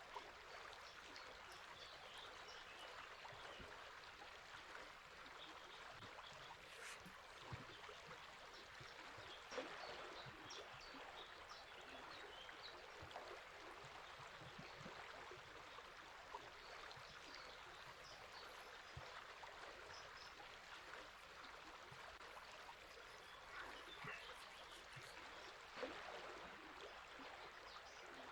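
A river flowing steadily, faint, with scattered brief bird chirps over it and a few soft knocks.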